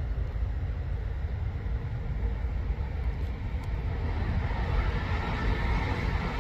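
Electric multiple-unit passenger train approaching on overhead-wired main line, the rush of its wheels on the rails building from about four seconds in and growing louder towards the end, over a steady low rumble.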